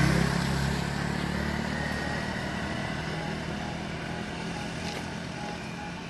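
A motor vehicle's engine running, loud at first and fading away steadily over several seconds as it moves off.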